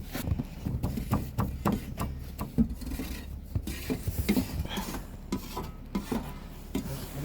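Snow shovel scraping and chopping into packed snow in a series of short, irregular strokes.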